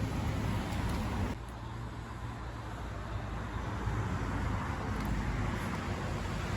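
Steady low rumbling background noise with no clear events; it drops a little in level about a second in.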